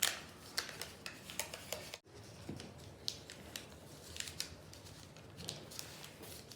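Origami paper being folded and creased by hand, crisp crackles and short clicks of paper, with a brief cut-out in the sound about two seconds in.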